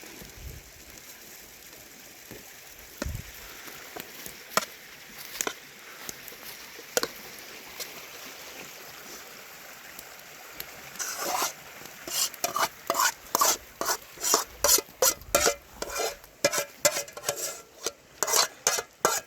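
A few scattered light clicks, then from about halfway a quick run of metal spoon scrapes and clinks against a pot or dish, a few strokes a second.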